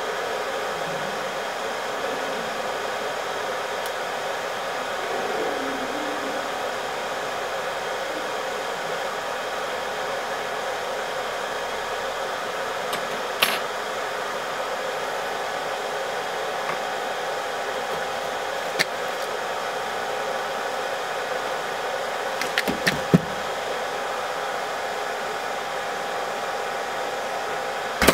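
Hot air gun blowing steadily as it heats the laptop's GPU chip for a reflow, with a few small clicks and taps about halfway through and near the end.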